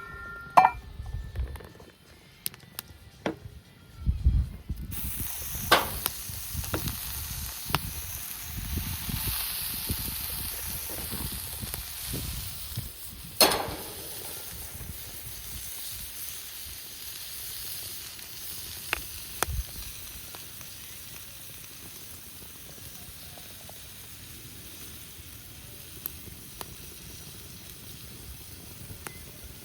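Food frying in a hot pan: a steady sizzle sets in suddenly about five seconds in, after a few knocks of handling, and slowly dies down, with scattered small pops and one sharp knock.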